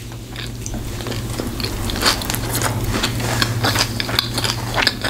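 Biting into a hot dog in a soft bun and chewing it close to the microphone: a run of quick mouth clicks and small crunches that gets busier about two seconds in.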